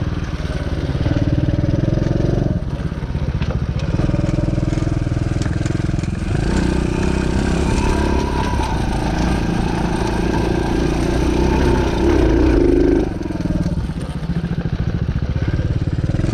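Moto Pro DB14 110cc dirt bike engine running as it is ridden, the revs rising and falling with the throttle, with a longer, stronger pull from about six to thirteen seconds before it eases off.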